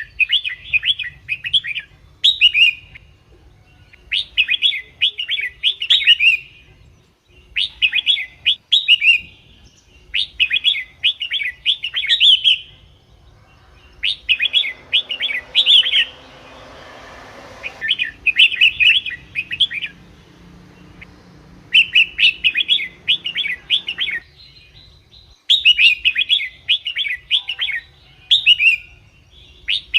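Red-whiskered bulbul singing: short, rapid warbled phrases of a second or two each, repeated with brief pauses, about ten in all.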